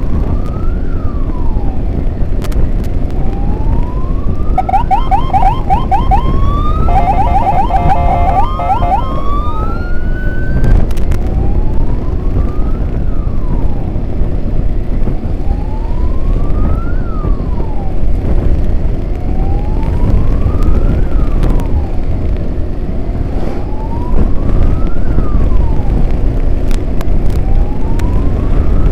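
Emergency vehicle siren in a slow wail, rising and falling about every four seconds. About five seconds in it switches for a few seconds to a fast warbling yelp, then goes back to the wail, all over a steady low rumble.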